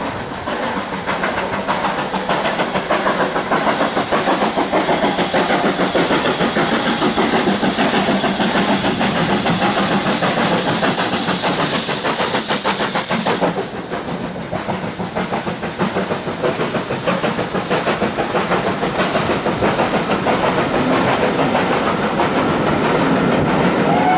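Steam locomotive working hard, with rapid rhythmic exhaust beats throughout. A loud high hiss of steam joins in and cuts off suddenly just past halfway.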